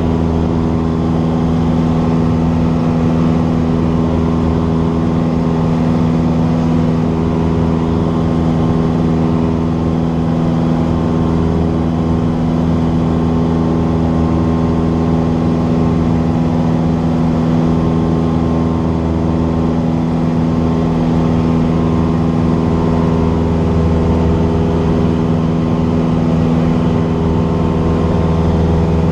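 Cessna 172's piston engine and propeller running at a steady speed, the pitch and loudness unchanging throughout.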